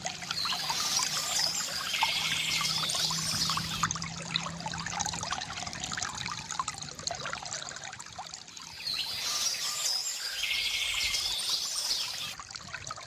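Water from a bamboo fountain trickling and pouring steadily, with a bird singing a short phrase twice, about a second in and again about nine seconds in.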